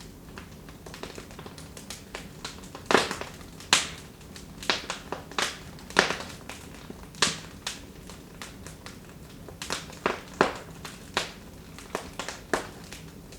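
Wood fire in a fireplace crackling: irregular sharp pops and snaps of burning wood over a faint steady hiss. The loudest pops come about three seconds in, at about six seconds, and just after seven seconds.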